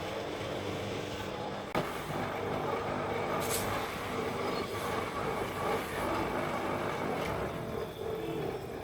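Steady mechanical running noise with a constant hum, broken by a sharp click a little under two seconds in.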